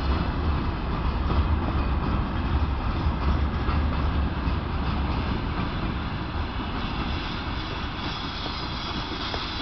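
Freight train of open gondola wagons behind a VL10U electric locomotive rolling past close by: a steady rolling noise of wheels on rail with a deep low drone, easing slightly toward the end.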